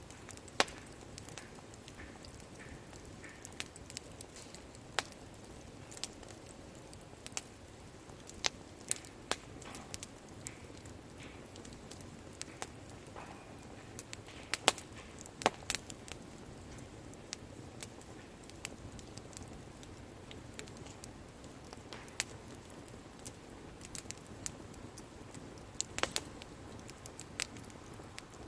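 Wood campfire crackling: irregular sharp pops and snaps over a soft steady rush of burning.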